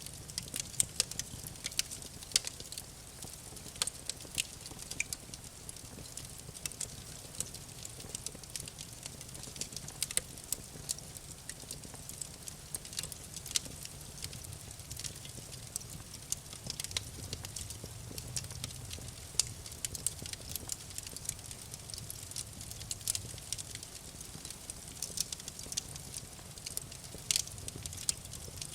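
Wood fire crackling and popping: many irregular sharp snaps over a low steady rumble of the flames.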